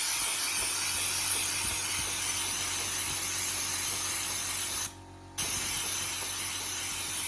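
Compressed air hissing steadily as it drives a homemade Sabu disc replica turbine. The air cuts out for about half a second around five seconds in, then comes back.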